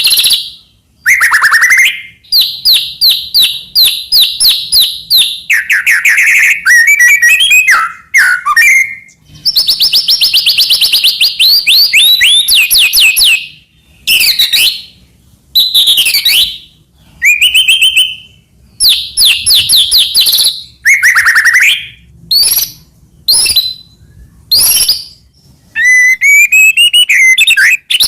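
White-rumped shama (murai batu) singing a loud, varied song. Fast runs of repeated high notes, rising and falling whistles and busy chattering phrases come one after another, with short pauses between them.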